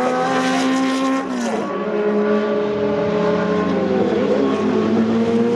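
Historic race car engines at high revs on track, holding a steady note with a sharp drop in pitch about a second and a half in, then settling and climbing slowly again.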